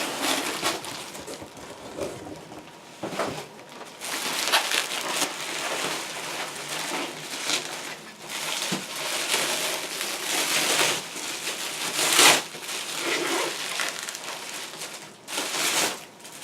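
Packing material crinkling and rustling in irregular bursts as it is handled and pulled away from a boxed drone, with one louder crumple about twelve seconds in.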